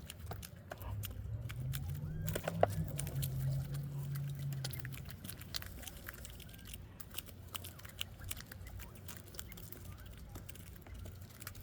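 Bobwhite quail pecking and crunching up mealworms: a quick, irregular run of sharp little clicks and crunches. A low hum sounds underneath for a few seconds near the start.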